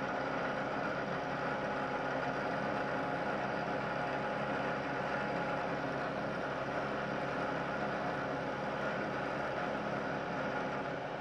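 Milling machine running with an end mill taking a light facing pass across a steel part, a steady hum of many pitched tones. A low rumble drops out shortly before the end.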